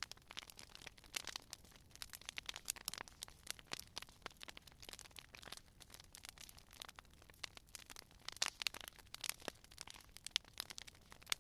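Wood fire crackling and popping: a steady run of irregular sharp snaps, now and then a louder pop.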